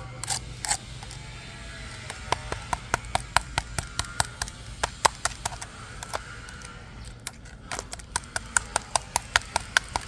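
Sharp clicks in quick runs of about five a second, one starting about two seconds in and a second near the end.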